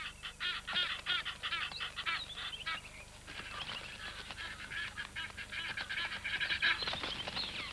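Egyptian geese calling in alarm: a rapid run of short, high-pitched calls, with a longer falling call about three seconds in.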